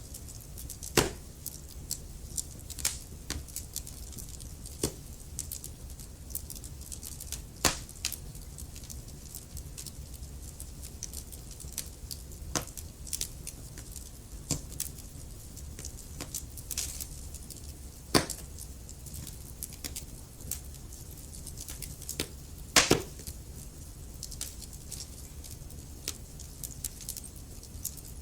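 Wood fire crackling in a fireplace: irregular sharp snaps and pops over a low steady rumble, with a handful of louder pops scattered through.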